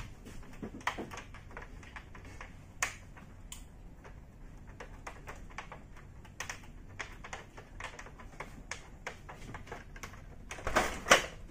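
Irregular light clicks and taps of hands and tools on plastic parts while an air conditioner's casing is being taken apart, with a louder, denser clatter of scraping near the end.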